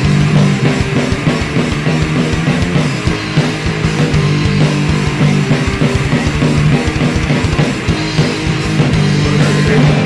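Heavy metal band playing an instrumental passage between sung lines: electric guitars holding low notes over a drum kit.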